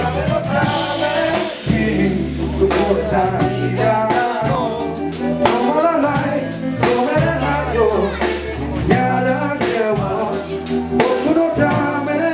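Band music: a drum kit keeping a steady beat under a bass line, with a voice singing over it.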